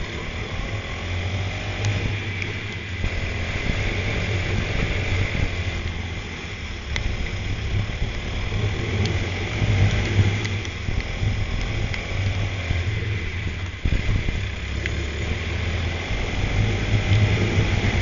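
Go-kart engine running on track, its pitch rising and falling again and again as the kart speeds up and slows down.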